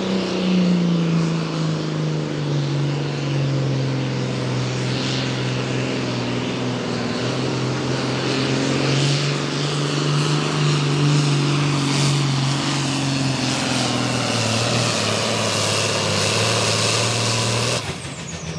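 Diesel pulling tractor's engine running hard under load as it pulls the sled, its pitch sinking gradually as the sled bogs it down. The sound cuts off suddenly near the end.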